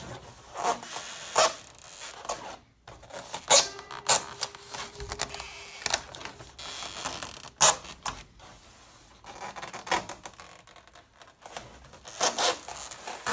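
Styrofoam insulation board pressed by hand into a metal garage door panel: irregular creaking and rubbing of foam against the door.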